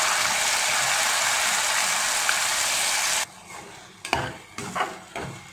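Ground mango chutney paste sizzling loudly as it hits hot oil with mustard seeds and curry leaves in a metal kadai. The sizzle cuts off abruptly about three seconds in. A steel ladle then scrapes and stirs the paste against the pan in a few separate strokes.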